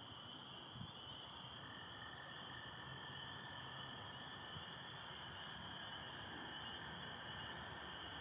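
Steady chorus of spring peepers calling in a dense, high, continuous band. About a second and a half in, an American toad joins with a long, even, lower trill that keeps going.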